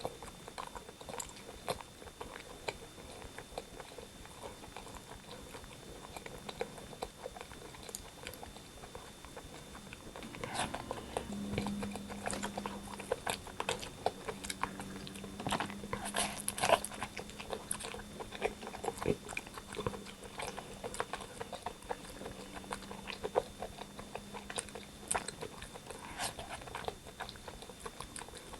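Close-miked eating of rotisserie chicken: bites, chewing and crunching, with many short wet clicks, busiest in the second half.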